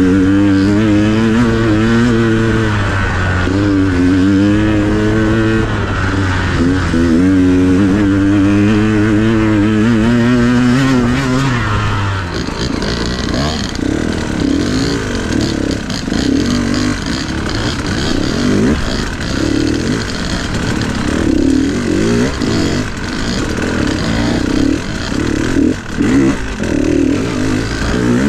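Dirt bike engine being ridden on trail, its pitch rising and falling with the throttle. About twelve seconds in the sound changes abruptly to a rougher, more uneven engine note with more rushing noise, like a different bike.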